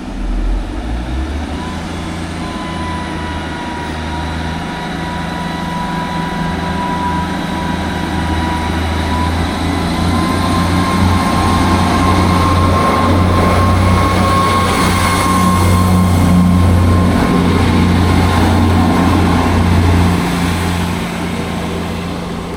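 Diesel train running through the station: a low engine drone with a steady whine on top, building up, loudest late on and then easing off.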